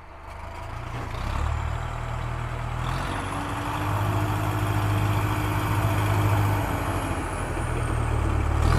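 A motor vehicle's engine running, fading in from quiet over the first couple of seconds, then holding a steady low hum.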